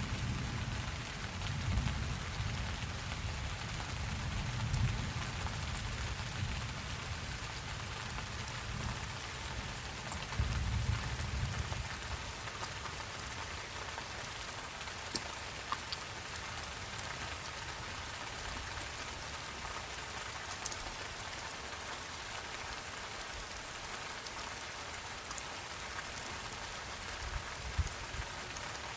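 Steady rain falling, an even hiss of drops on surfaces. A low rumble of thunder is heard in the first dozen seconds or so, then dies away.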